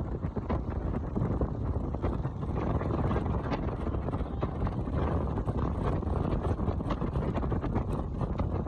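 A car on the move: a steady low rumble of road and wind noise, with light ticks scattered through it.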